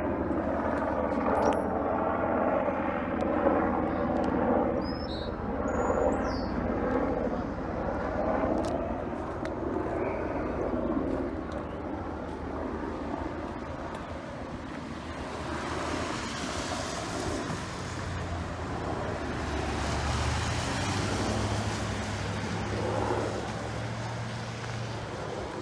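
A motor vehicle running, with a steady low rumble. Pitched engine tones are strongest in the first ten seconds, and a wider hiss of road or passing-traffic noise swells up about fifteen seconds in.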